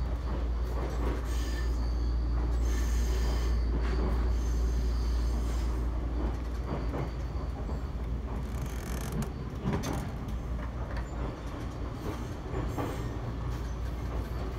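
Cabin running noise of a Toyama Chiho Railway 20020 series (ex-Seibu New Red Arrow) electric train underway: a steady deep rumble with scattered short clicks. The car rides on running gear taken from the first-generation Red Arrow, which makes its motor noise and ride unusually loud.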